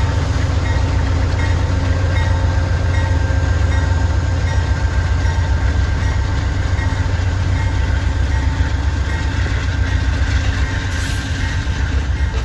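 Diesel-hauled Amtrak passenger train pulling out of the station: a loud, deep, steady rumble with a few thin steady whining tones above it.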